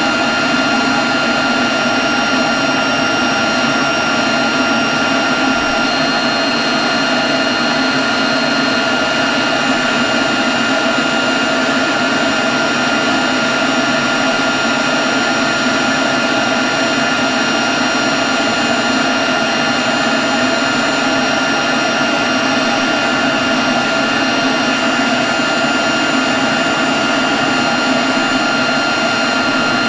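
Leaf blower running steadily at constant speed: a loud rush of air with a steady high whine.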